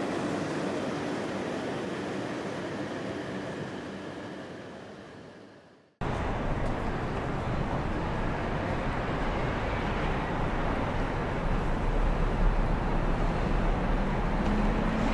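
Shinkansen high-speed train running noise. A departing 500 series train's rumble fades out over the first six seconds, then an abrupt cut brings in louder, steady train noise with a deep rumble that swells slightly toward the end.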